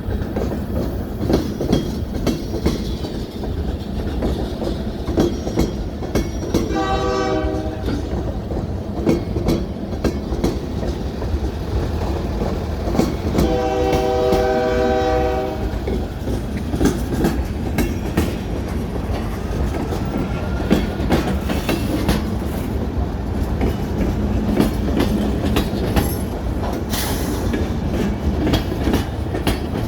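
Train rolling past with a steady low rumble and the clickety-clack of wheels over rail joints; its horn sounds twice, a short blast about seven seconds in and a longer one about thirteen seconds in.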